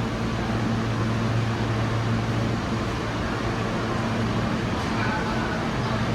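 Steady hum and rumble of a New York subway train in a station, with a constant low droning tone and no change in pitch.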